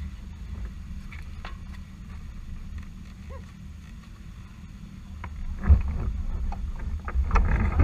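Motorcycle engine rumbling low and steady, getting louder about two thirds of the way in, with a few short clicks over it.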